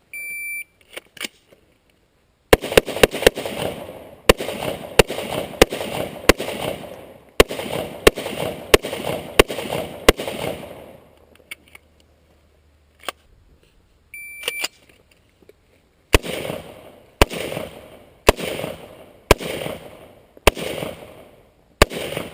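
Rifle shots in quick succession, each with an echoing tail. A short high beep comes just before the first shots and again about halfway through, after which the shots come at about one a second.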